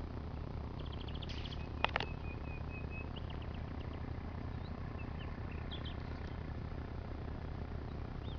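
Small birds chirping in short scattered calls, with a brief whistled note about two seconds in, over a steady low hum. Two sharp clicks about two seconds in are the loudest sounds.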